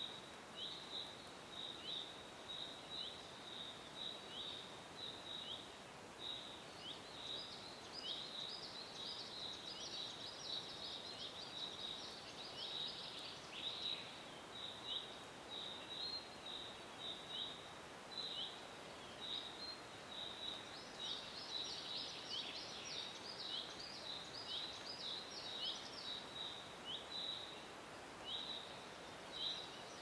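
Forest ambience: a bird chirping over and over in short falling notes, about two a second, over a soft steady hiss. The calling gets busier and more varied about a third of the way in and again for a few seconds past the middle.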